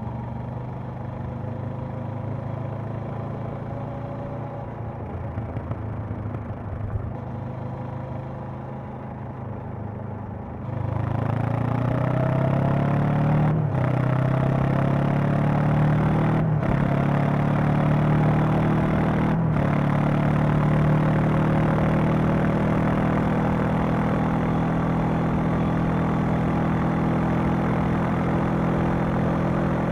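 Honda CB500X parallel-twin engine and exhaust running low and steady for about ten seconds, then the throttle opens and the engine pulls hard, its note rising through three quick upshifts a few seconds apart before it settles into a steady cruise.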